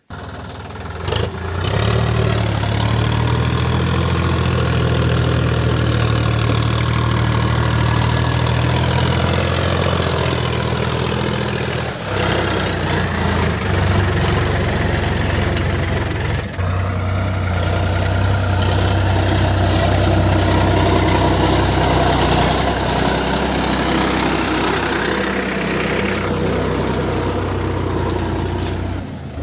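Sonalika DI 50 RX Sikander tractor's diesel engine running steadily, with brief breaks about 12 and 16 seconds in.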